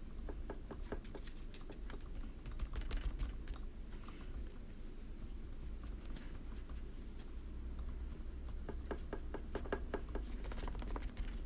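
Quick light taps in two clusters, one in the first few seconds and another near the end, over a steady low hum.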